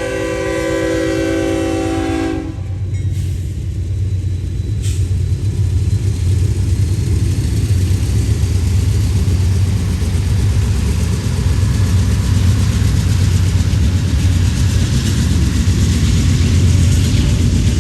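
Eastbound double-stack freight train: a locomotive's multi-chime air horn sounds until about two and a half seconds in and cuts off, then a steady, heavy low rumble of the train passing continues.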